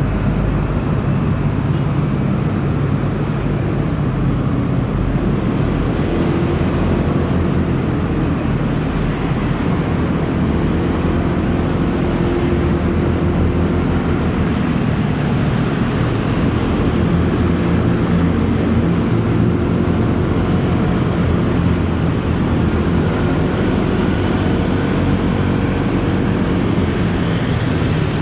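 Motorcycle riding through city traffic: a steady drone of engine and road noise with surrounding vehicles, with no sudden events.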